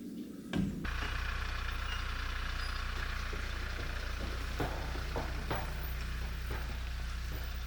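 A 1-ton truck's engine starting with a short burst about half a second in, then idling steadily with a low hum and a few faint clicks.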